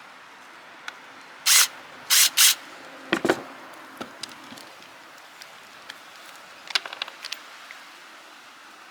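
A rivet gun being taken apart by hand: sharp metal clicks and knocks from the tool's parts. About a second and a half in come three short loud hissing bursts, the loudest sounds here, followed by a knock a little after three seconds and a quick run of clicks near seven seconds.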